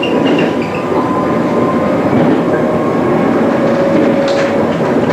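MI79 RER electric multiple unit running along the track, heard from the driver's cab: steady wheel and rail noise with a clack over the rail joints and points, one sharper one about four seconds in, and a faint steady whine.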